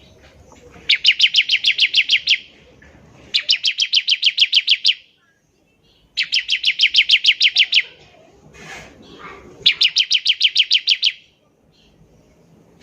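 Bar-winged prinia (ciblek) singing its rapid-fire 'nembak ngebren' song: four bursts of fast, evenly repeated high notes, about nine a second, each burst lasting about a second and a half with short pauses between.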